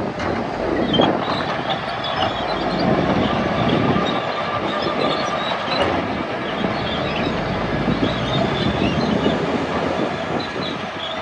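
Crawler bulldozer running, its diesel engine working under load while the steel tracks clank and squeak continuously.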